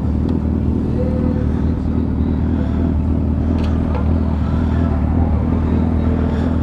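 Motorcycle engine idling steadily close by, a low even hum.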